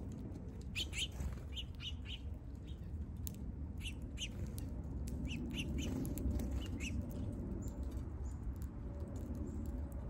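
Small songbirds chirping: scattered short chirps, about a dozen, through the first seven seconds, over a steady low rumble.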